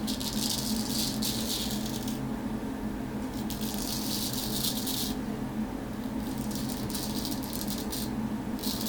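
Straight razor blade cutting through stubble on a face coated in hair conditioner, in about four crackling strokes of a second or two each with short pauses between.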